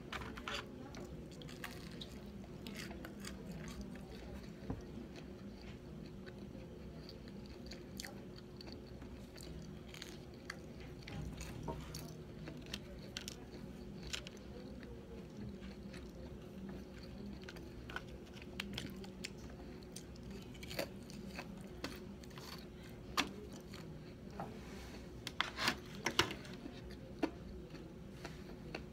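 Close-up sounds of a person chewing sushi, with scattered soft clicks and wet mouth noises and a few louder clicks near the end.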